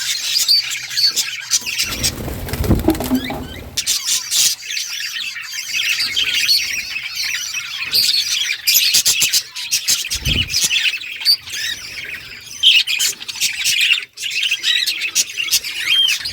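A group of budgerigars chattering continuously, a busy warble of chirps, squawks and clicks. Two low thuds break in, one about two to three seconds in and a shorter one about ten seconds in.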